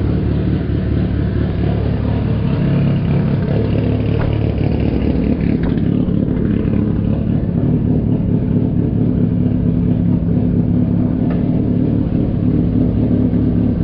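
Lexus IS500's 5.0-litre 2UR-GSE V8 idling steadily through its quiet factory exhaust, with a few faint clicks over it.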